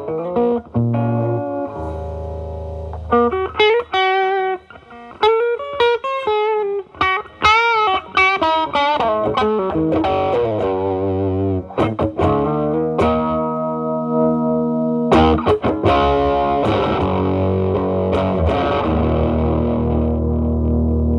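Gibson SG electric guitar with humbuckers played through an MXR Distortion+ pedal into a Marshall Valvestate amp's drive channel, giving a distorted tone. It plays bluesy lead lines with wide vibrato and bends, then lets chords ring out toward the end.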